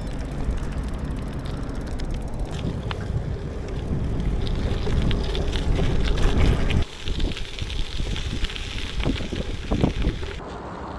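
Wind buffeting the camera microphone during a bicycle ride, a heavy low rumble with scattered small clicks. The rumble eases abruptly about seven seconds in.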